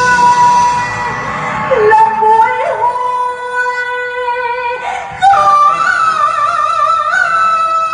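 Cải lương music: a singer holding long, wavering notes over instrumental accompaniment, with a new, louder phrase starting about five seconds in.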